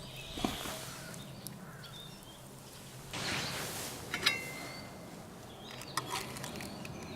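Forest ambience with short bird chirps, a few sharp clicks and taps, and a brief swell of hissing noise about three seconds in.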